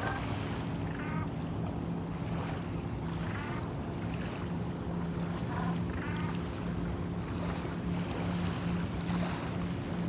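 Steady low drone of a boat motor over wind and water noise, with short bird calls breaking in several times.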